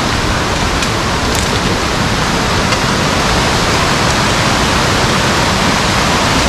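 Loud, steady rush of falling water, an even hiss with no breaks.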